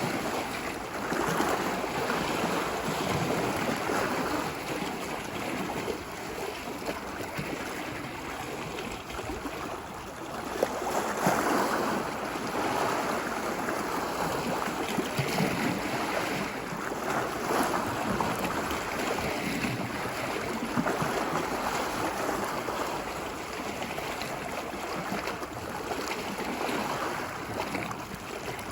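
Ocean waves washing ashore on a beach, a continuous surf wash that swells and eases every few seconds.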